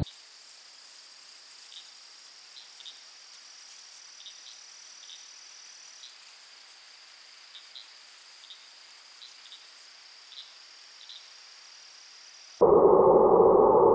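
Quiet, steady high-pitched insect chorus with short chirps scattered through it. About twelve and a half seconds in it cuts off suddenly and a loud, steady low drone begins.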